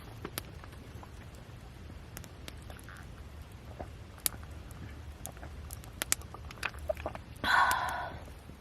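Campfire crackling: scattered sharp pops and ticks over a low steady rumble, with a short louder rushing noise near the end.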